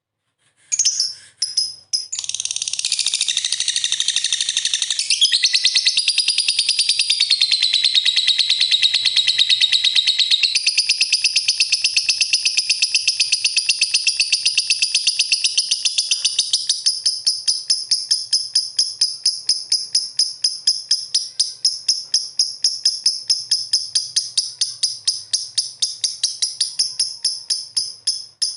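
Lovebird chattering in one long, unbroken, rapid trill of high chirps after a couple of short calls. In the second half the trill loosens into a fast, even string of separate chirps.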